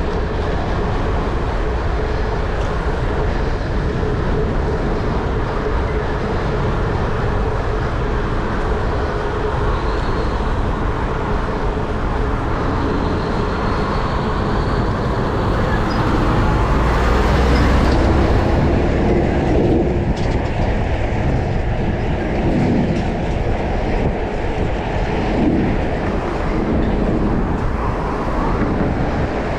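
Steady rumble of a moving vehicle, train-like, swelling slightly in loudness a little past the middle.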